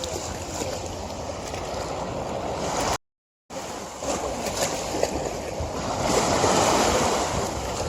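River water rushing and flowing as a steady wash of noise, swelling a little louder in the second half. It cuts out completely for about half a second a few seconds in, then resumes.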